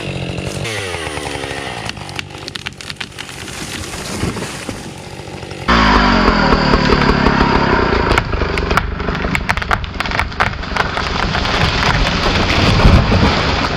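Two-stroke chainsaw working through brush and branches. Early on its pitch falls as it winds down from high revs. Just under halfway it jumps abruptly to a much louder run at high revs, with many sharp cracks and snaps.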